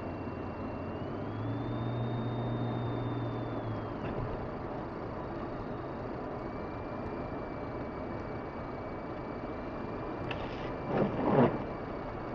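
A car driving, heard from inside the cabin: steady road and tyre noise with a low hum that swells for a few seconds, and a short cluster of knocks about eleven seconds in, the loudest sound.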